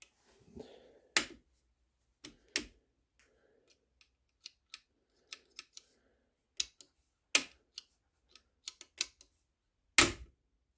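Flintlock lock and double set trigger being worked by hand: a run of irregular sharp mechanical clicks with soft handling noise between them, the loudest about a second in, midway and near the end. The cock is being checked to reach its loading position with the set trigger fitted.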